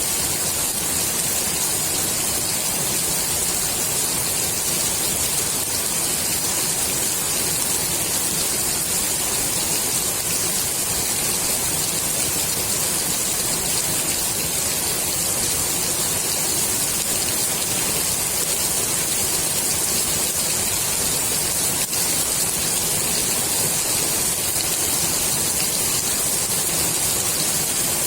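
Rain falling steadily onto the water of a swimming pool: an even, unbroken hiss.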